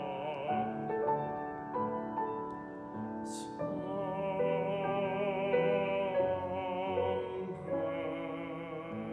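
Classically trained solo voice singing a slow Christmas song with vibrato, accompanied by piano. There is a brief hiss about three seconds in.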